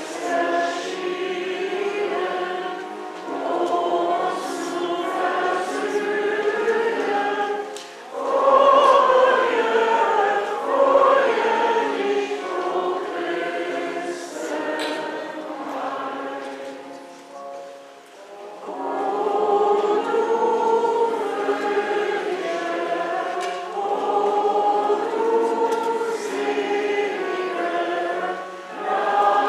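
A choir singing a hymn in long phrases, with brief breaths between them.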